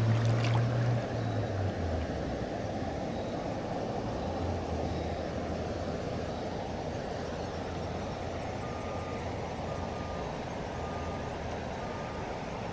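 Steady rushing of river water, with a low hum at the start that fades after about two seconds. Faint short beeps repeat at an even pace from about two-thirds of the way in.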